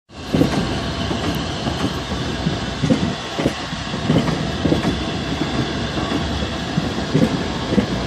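Southeastern electric multiple-unit passenger train rolling slowly past on the adjacent track, its wheels knocking irregularly over the rail joints and pointwork.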